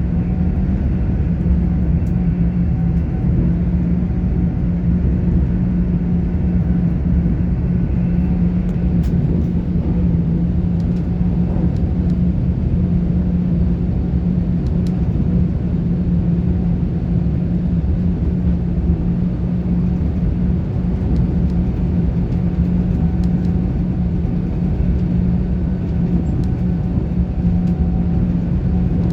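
Interior of a Class 800 IET train running steadily along the line: a continuous rumble from the wheels on the rails, with a steady low hum over it.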